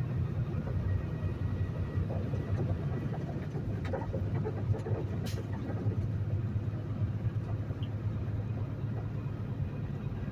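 Peterbilt semi truck's diesel engine running with a steady low rumble, heard from inside the cab, with a couple of faint clicks around the middle.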